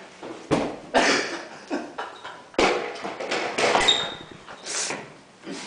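A few scattered knocks and taps, about four, with quieter rustling between them.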